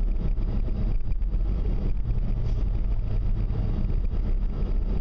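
Strong wind buffeting the microphone: a steady, loud low rumble that never lets up.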